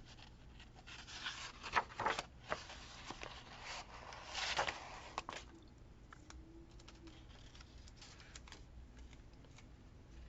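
Paper being handled: rustling, light scraping and small taps for the first five seconds or so, loudest about four and a half seconds in, then only a few faint ticks.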